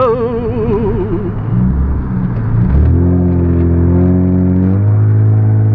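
Car engine heard from inside the cabin, pulling with a slowly rising pitch, then shifting to a new steady note about five seconds in.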